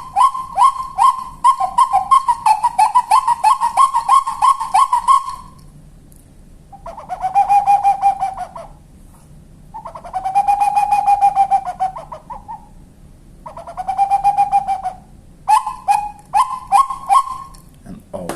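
Wooden Maurílio Coelho bird call for the capoeira (spot-winged wood-quail), blown by mouth. It gives a fast run of short whistled notes for about five seconds, then three longer whistled phrases a second or two apart, then another quick run of short notes.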